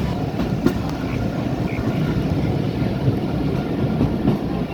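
Steady low rumble of a moving train, with a faint click under a second in.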